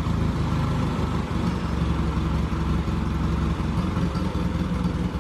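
An engine running at a steady idle, with an even low pulsing throb.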